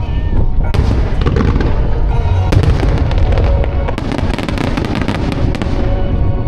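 A fireworks starmine barrage: a deep rumble of booms with dense crackling bursts that start about a second in and are thickest mid-way, with the show's music playing over loudspeakers.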